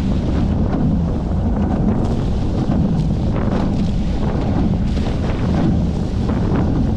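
Loud, steady wind buffeting the microphone on a Hobie 14 catamaran under sail, over the rush of water past the hulls.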